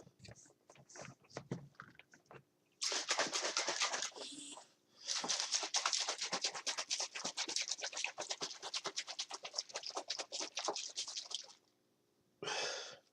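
Powdered energy drink being mixed with water in a cup. A short burst of noise is followed by about six seconds of fast, even, rhythmic strokes, and another brief burst near the end.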